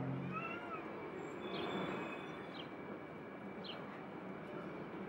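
Outdoor street ambience: a steady hiss of background noise, with a small bird giving a short, high, falling chirp about once a second.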